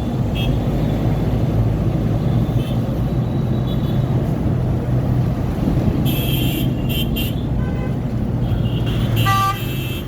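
Steady rumble of road traffic and engines, with short horn toots breaking through several times, the clearest a horn blast about nine seconds in.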